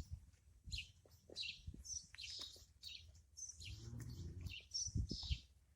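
Birds chirping: a quick run of short, high calls, with a few soft low thumps.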